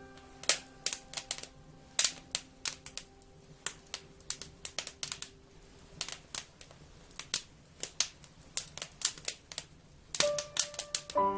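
Wood fire crackling: irregular sharp pops and snaps, several a second. Soft held music notes underneath fade out over the first few seconds and come back about ten seconds in.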